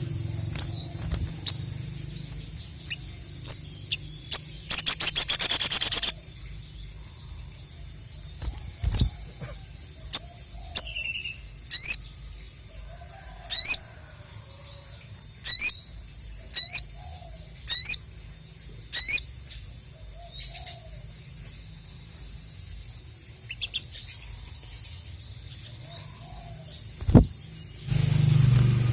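Sogon (sogok ontong) songbird singing: a fast, dense trill about five seconds in, then a series of about six loud, sharp, very high notes a second or two apart, among scattered short chirps. A faint low hum runs underneath.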